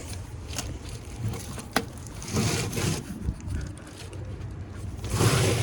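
A heavy forklift battery cell being worked loose in its case: a sharp knock just under two seconds in, then two longer bursts of scraping, the second near the end.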